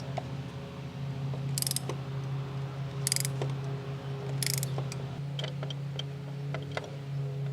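Ratchet wrench on a spark plug socket clicking in three short bursts, about a second and a half apart, as it is swung back while loosening a spark plug. Scattered light ticks of the tool and a steady low hum run underneath.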